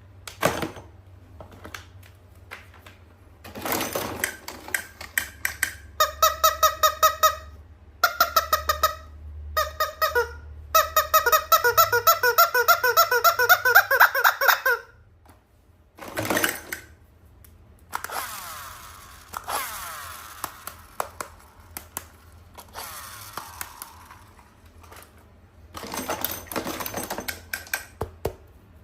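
Toys and plastic packaging being handled, with scattered clicks and several runs of rapid, pulsing high-pitched squeaks that fill the middle of the clip, the longest lasting about four seconds.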